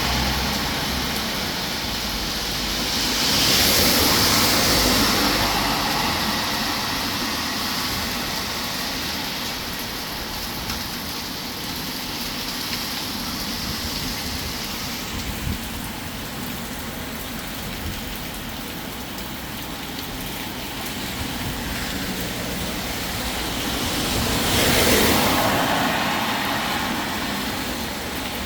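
Steady rain with cars passing on a wet road: a constant hiss of rain and tyre spray, swelling twice as vehicles go by, once a few seconds in and again near the end.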